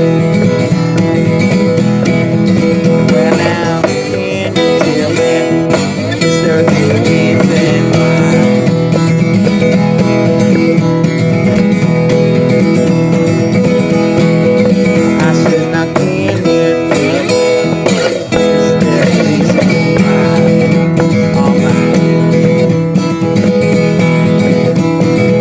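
Acoustic guitar being strummed in a steady, loud instrumental passage.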